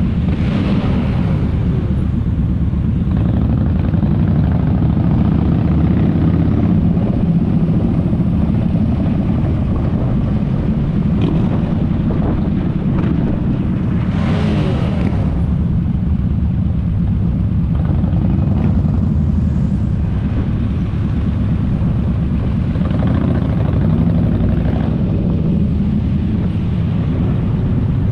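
Motorcycle engine running steadily while riding, a continuous low rumble with a few brief swells in the higher sound.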